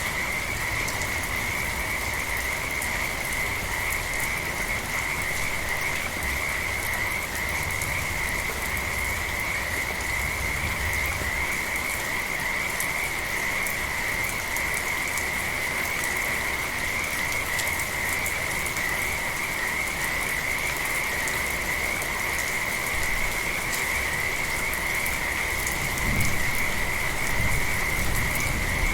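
A chorus of frogs calling in a steady, high, unbroken trill over the even hiss of steady rain. A low rumble swells near the end.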